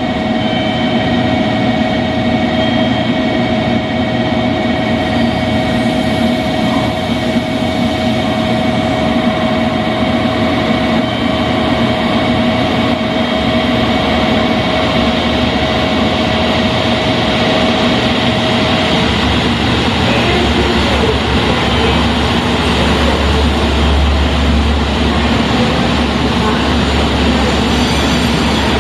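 Diesel train running at a station platform, with a steady mechanical noise and a few held tones; the tones stop about two-thirds of the way through and a low rumble grows heavier from then on.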